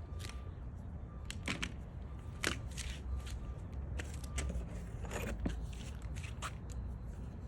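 Irregular clicks, taps and short scrapes of hands handling wood pieces, screws and tools, over a low steady rumble. No drill is running.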